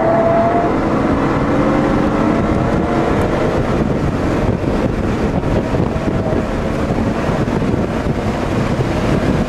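Interior sound of a 2003 Audi S8's 4.2-litre V8 pulling on track, heard inside the cabin over heavy road and wind noise, recorded on a phone. The engine note rises slowly in the first few seconds.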